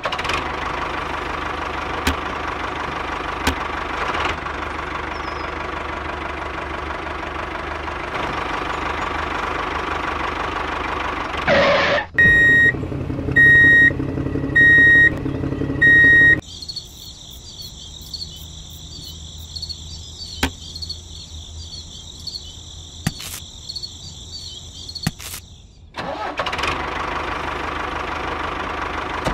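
A tractor engine sound running steadily, then four evenly spaced high beeps about a second apart. A steady high whine follows, with a few sharp clicks, and then the engine sound returns near the end.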